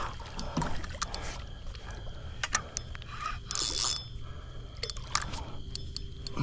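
Water splashing and scattered knocks and clicks as a large blue catfish is being landed at the water's edge, with a louder splash about three and a half seconds in.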